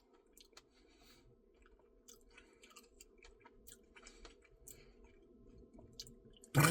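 Faint chewing and small wet mouth clicks of someone eating a Reese's Pieces cookie dough Blizzard, over a low steady hum. A short voiced sound, falling in pitch, comes near the end.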